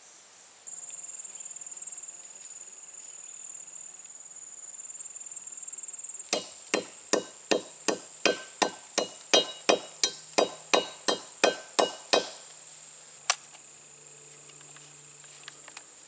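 A run of about sixteen sharp, ringing knocks, nearly three a second, from about six seconds in to about twelve, with one more knock shortly after. Under them runs a steady high-pitched insect drone.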